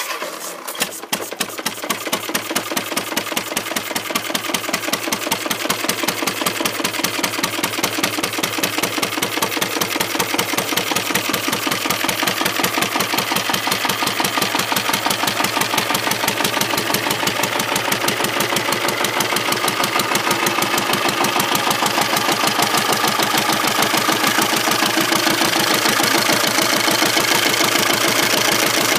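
Ford Model A four-cylinder flathead engine, built as an open cutaway with its crank and valve gear exposed, catching on its electric starter and then running steadily with a fast, even firing beat.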